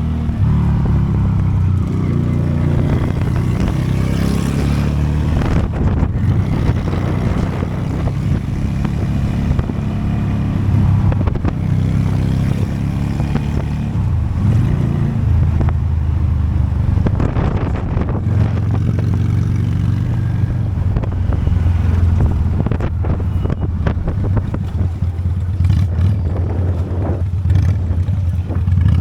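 Honda Steed motorcycle's V-twin engine running steadily while riding, its pitch drifting up and down a little with the throttle, with wind noise over the microphone.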